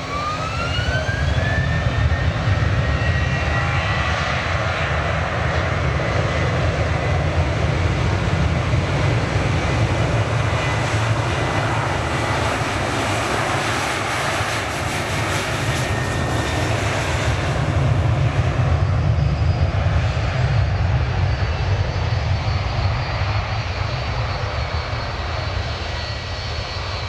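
Airliner's jet engines running loud and close: a heavy rumble with a whine that rises over the first couple of seconds, then holds as a steady high tone.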